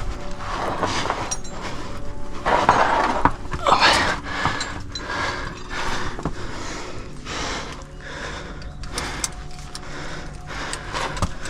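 A climber working up a sandstone chimney: irregular scraping and rubbing of body and clothing against the rock, loudest about three to four seconds in, with small clicks and knocks and heavy breathing.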